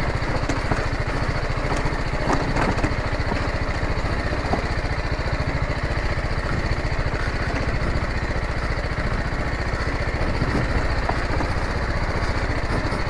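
Motorcycle engine running steadily at low revs, with a few faint clicks over it.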